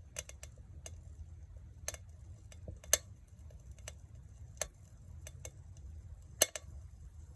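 Wood campfire crackling: scattered sharp pops at irregular intervals, the two loudest about three and six and a half seconds in, over a low steady rumble.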